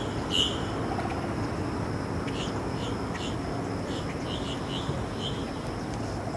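A bird calling in short repeated chirps, a loud one near the start and then a run of about eight softer ones in the middle, over steady outdoor background noise.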